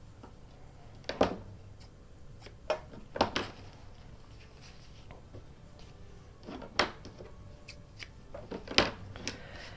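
Craft materials and tools being handled on a tabletop: six or so short knocks and taps at irregular intervals.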